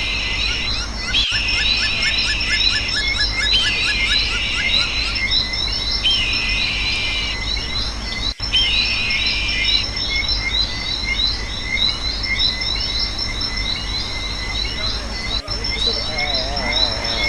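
Outdoor nature ambience: birds chirping and calling again and again over a steady insect drone.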